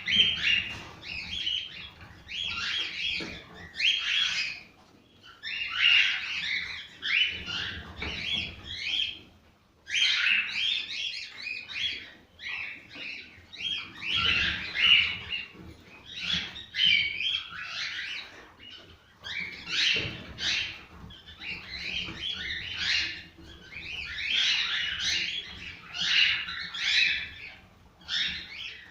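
Cockatiels chirping and warbling in busy phrases of a second or two each, with short pauses between.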